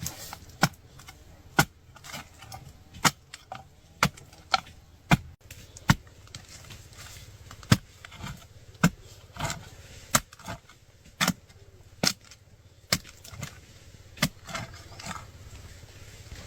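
A digging tool strikes the ground again and again, in sharp, irregular blows about one a second, some harder than others.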